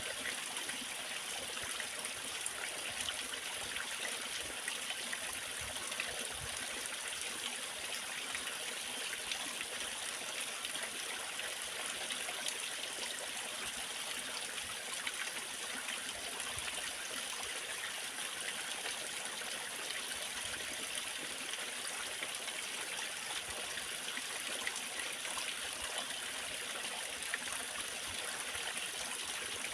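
Waterfall: water cascading in a steady, even rush with a bright hiss.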